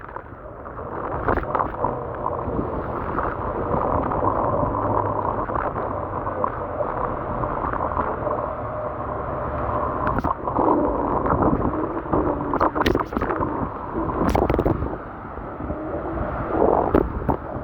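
Muffled, steady wind and wet-road noise of an electric scooter ridden in the rain, with a faint hum and scattered knocks and clatters.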